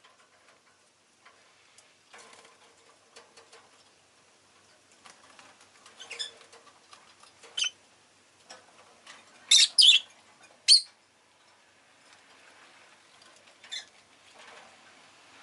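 Rosy-faced lovebird giving scattered short, sharp chirps, the loudest a quick cluster of three about ten seconds in. Soft scratching and rustling fills the gaps between calls.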